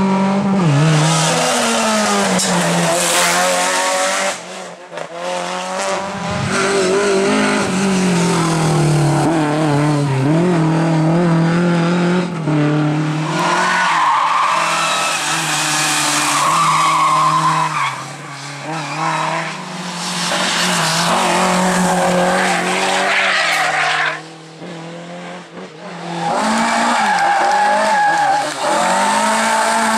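Rally cars driven flat out, engines revving up and down through gear changes while the tyres skid and squeal. The sound drops away briefly a few times.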